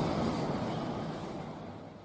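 A heavy road vehicle, a bus or truck, running as a steady rumble with a low hum, fading out steadily.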